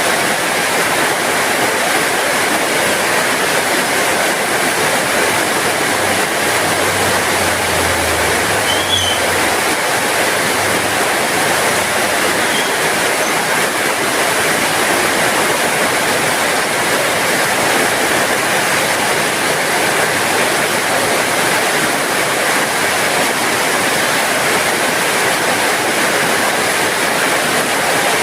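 Heavy rain falling steadily in a backyard, an even rushing hiss with no letup. A faint low hum sits under it for a few seconds about a quarter of the way in.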